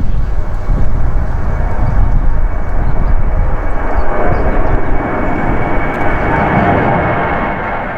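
Airbus A320 jet taking off, engines at takeoff thrust: a steady high whine over a rumble that builds to its loudest a few seconds in. Gusty wind buffets the microphone at first.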